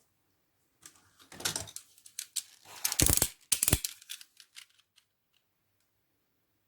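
Broken LEGO plastic parts being sanded smooth: short bouts of scraping and clicking, the loudest near the middle, trailing off into a few scattered clicks.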